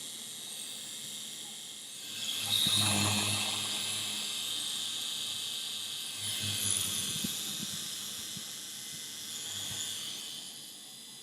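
Small toy RC helicopter's electric motor and rotor whirring, swelling louder twice as it comes close.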